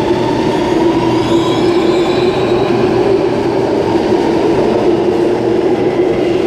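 Electric passenger train running at a platform: a loud, steady hum with a faint rising whine, as of traction motors as the train pulls away.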